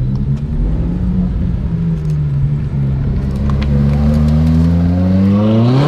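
A supercar's engine running at low speed with a steady drone, then revving sharply upward near the end.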